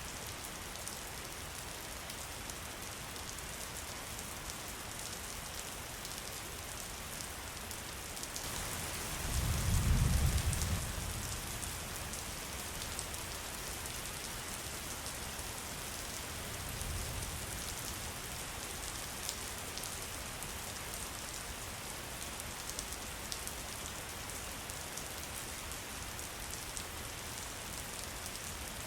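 Steady rain falling, an even hiss of drops. About nine seconds in, a low rumble of thunder swells and fades, the loudest moment, with a fainter rumble a few seconds later.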